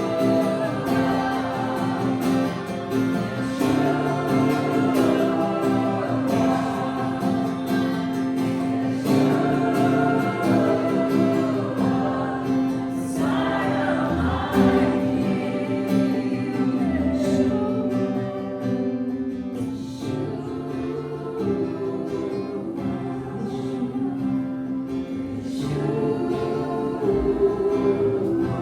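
Live worship music: several voices singing together over instrumental accompaniment, with a low note held steadily underneath.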